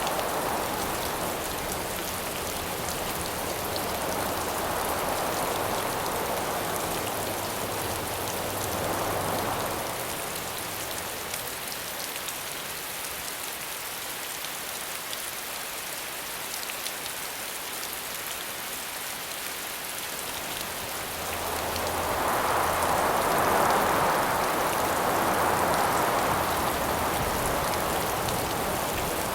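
Steady rain hiss with wind gusts swelling and easing over it: one gust in the first third, a lull in the middle, then a stronger, longer gust in the last third.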